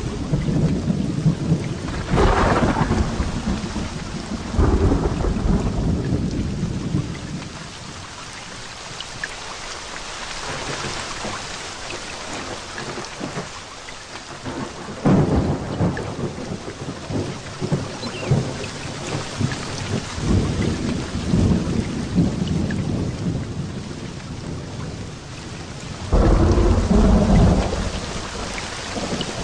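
Heavy rain falling steadily through a thunderstorm, with rolls of thunder rumbling again and again. The loudest roll comes a few seconds before the end.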